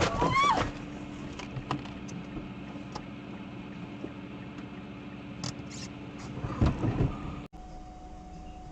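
Steady hum of a car's cabin on the move, with scattered light clicks and a short louder cluster of knocks about seven seconds in. The sound cuts off abruptly near the end and a different, higher steady hum takes over.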